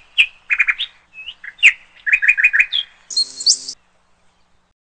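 Small songbirds chirping outdoors: sharp single chirps, then a quick run of five or so repeated notes about two seconds in. A short noisy burst comes near three seconds in, and the sound drops away about a second before the end.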